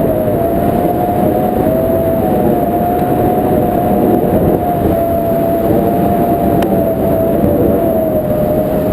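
Steady rumble of a moving vehicle, with a thin whine that wavers slightly in pitch over it.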